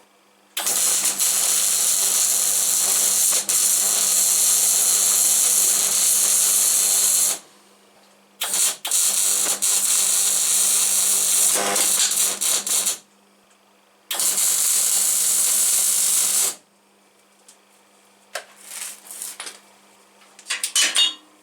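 Electric welder laying beads on 2 mm steel: three runs of harsh, crackling hiss, the first about seven seconds long, the others shorter, each starting and stopping abruptly.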